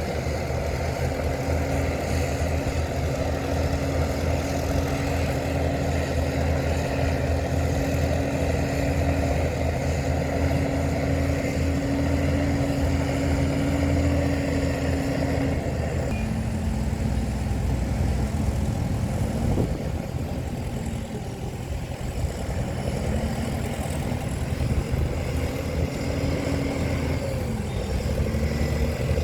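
Heavy diesel engine of earthmoving equipment running under load. Its note holds steady for about fifteen seconds, drops around the middle, then rises and falls a few times.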